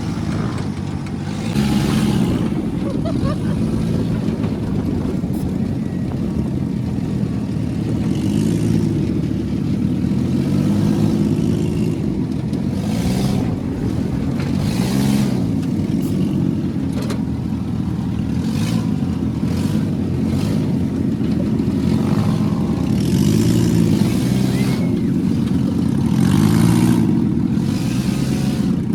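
A vehicle engine running, its pitch rising and falling every few seconds as it is revved, with occasional short rushes of noise.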